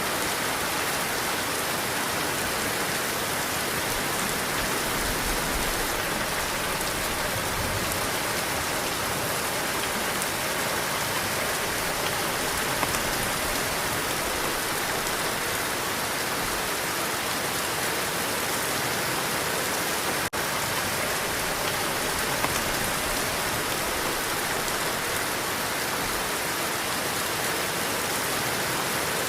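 Heavy rain falling steadily, a dense even hiss of drops, broken by a split-second dropout about two-thirds of the way through.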